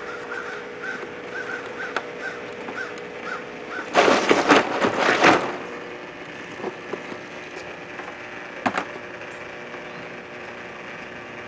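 A bird calls over and over in short, evenly spaced notes for the first few seconds. About four seconds in comes a loud burst of rustling noise lasting about a second and a half, and near nine seconds a single sharp knock.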